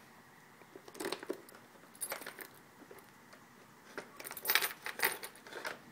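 A bunch of keys jangling, with sharp clicks and knocks in short bouts: about a second in, again at two seconds, and a longer run near the end.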